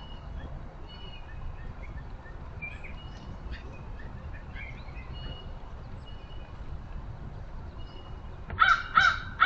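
A crow cawing loudly, two or three harsh caws in quick succession near the end, after several seconds of faint chirps and whistles from small songbirds.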